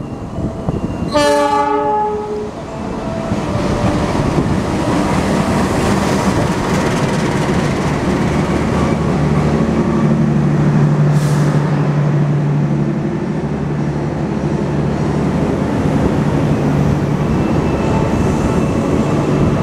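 Diesel locomotive horn sounds once, briefly, about a second in, then the Argo Anggrek passenger train rolls past close by: wheels and coaches rumbling along the rails, with a steady low hum in the second half.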